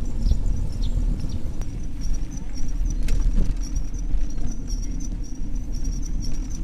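Wind rumbling on the camera microphone while riding a bicycle, with a high chirping repeated several times a second. A single sharp click comes about three seconds in.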